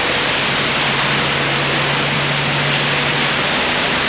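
A steady loud rushing hiss with a constant low engine-like hum underneath.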